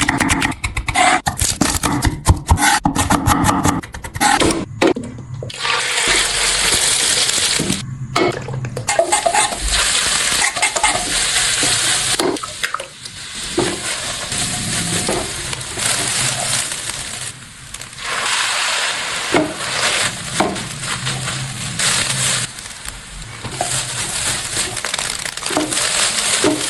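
Fried rice ingredients sizzling in hot oil in a pan and being stirred with a utensil, in several separate stretches. A run of quick knocks and clatters comes in the first few seconds.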